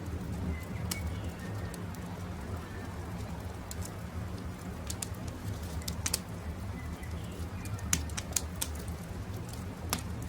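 Wood fire crackling, with sharp pops scattered throughout and the loudest a little past the middle and near the end, over a steady low rumble. Birds call faintly, with short high chirps in the first few seconds and doves cooing.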